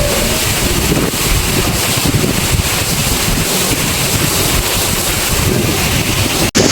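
Heavy rainstorm: a loud, steady rush of rain and water, with wind buffeting the microphone. It cuts out for an instant near the end.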